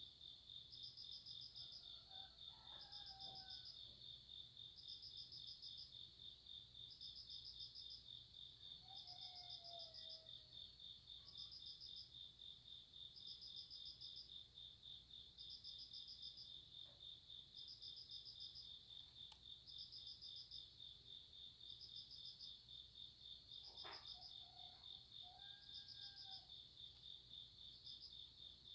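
Grass insects chirping on a summer night: a steady, fast, high-pitched cricket trill, with a second insect chirping in short bursts about every second and a half. A few faint whistled bird calls come in three times.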